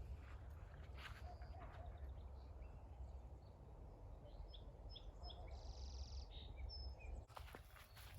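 Birds chirping, with short high calls and a buzzy trill about six seconds in, over a steady low rumble and a few footsteps near the start.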